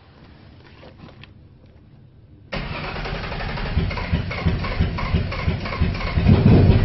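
3.0-litre V6 Jaguar S-Type engine in a Lotus Esprit firing up for the first time after the engine swap: it catches suddenly about two and a half seconds in and keeps running, growing louder toward the end.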